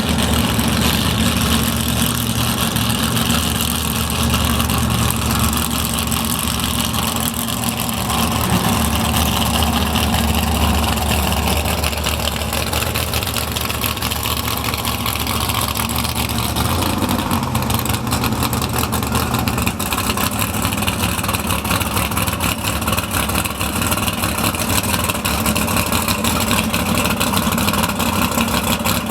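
Outlaw Super Stock drag car's engine idling steadily, its note shifting about seventeen seconds in.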